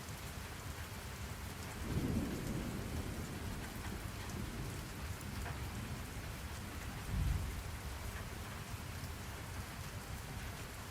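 Steady rain-sound ambience, an even wash of rain, with two brief low rumbles: one about two seconds in and a shorter one about seven seconds in.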